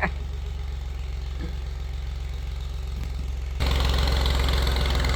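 Tractor engine idling with a steady low thrum, then about three and a half seconds in it suddenly gets louder as it is throttled up, while the tractor is being coaxed to go in reverse.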